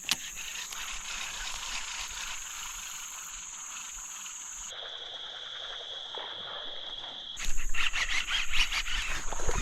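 Insects droning steadily in a high, even pitch. For a couple of seconds in the middle a lower steady buzz takes over, then the high drone returns. About seven seconds in, a louder, rapid rattling, churning sound starts up over it.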